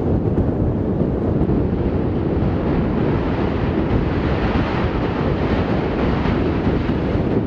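Strong wind blowing across the microphone: a loud, steady rush of noise without a break.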